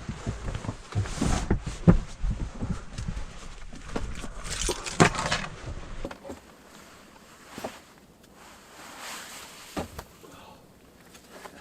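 Footsteps crunching in snow mixed with irregular knocks and rustles of handling gear. It is busier for about the first six seconds, then quieter with a few scattered clicks.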